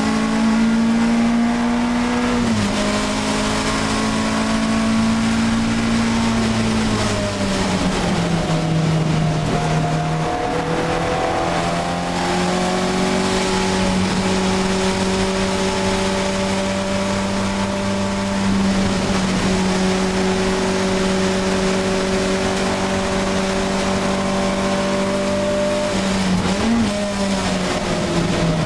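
Alfa Romeo 1750 GTV's twin-cam four-cylinder engine at racing speed, heard from inside the cabin. Its pitch steps down a few seconds in and again before ten seconds, holds steady for about fifteen seconds, then rises and falls briefly near the end before dropping lower.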